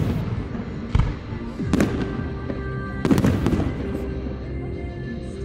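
Fireworks exploding, about five sharp bangs with echoing tails roughly a second apart, over sustained music playing underneath.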